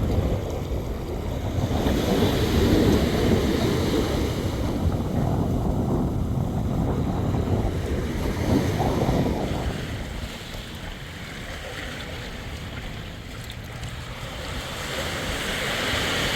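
Wind buffeting the microphone over the wash of sea water, easing off about ten seconds in.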